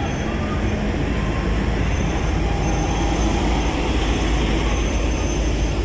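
VL10 electric locomotive running along the line, a steady rumble of the moving train with a faint high whine coming and going.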